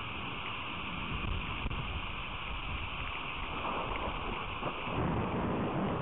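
Steady hiss of rain on an outdoor trail camera's microphone, with wind buffeting the microphone in low, uneven gusts that grow stronger in the second half.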